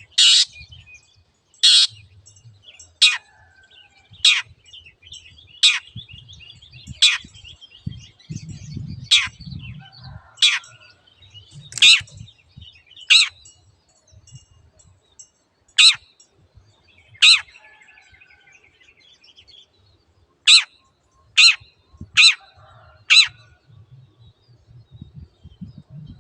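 Long-tailed shrike giving its loud, sharp "teot" call over and over, one brief call about every second and a half, with soft twittering between the calls. Near the end four calls come a little faster, about one a second.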